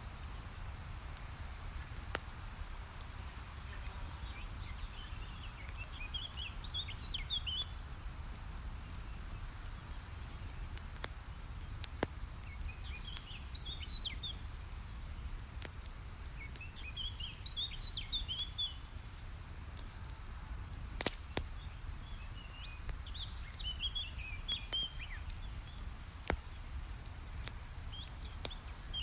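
Campfire crackling with a few sharp pops, while a songbird sings short, quick chirping phrases about every four to six seconds. A steady low rumble runs underneath.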